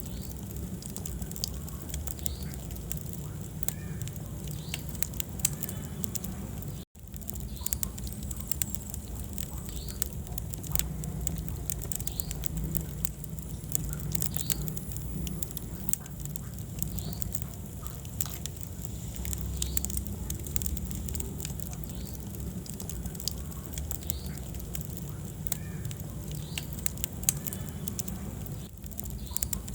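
Wood fire burning in a fireplace: a steady low rumble of flames with frequent irregular crackles and pops. The sound cuts out for an instant about seven seconds in.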